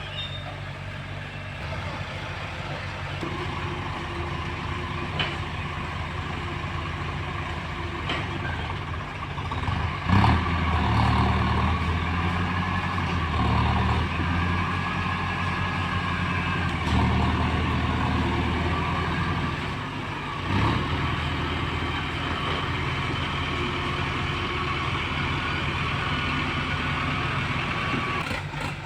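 Diesel tractor engine running steadily, then working harder and louder for about ten seconds from about ten seconds in before easing back, with a sharp knock as it picks up and another as it drops back.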